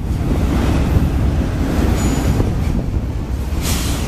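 Autorack freight cars rolling past on the rails, a steady heavy rumble of wheels on track. A faint, brief high-pitched squeal comes about two seconds in, and a short rush of hiss near the end.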